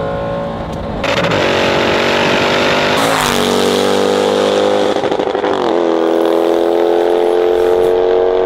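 Range Rover SVR's supercharged V8 running through a titanium exhaust, pulling with a slowly rising pitch. The sound jumps abruptly about one and three seconds in, and the pitch drops sharply about six seconds in, as at an upshift, then climbs again.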